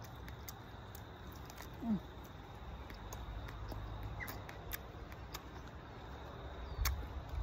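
Close-up chewing of crisp raw mango: scattered small crunching clicks over a steady low rumble, with one short falling low sound about two seconds in.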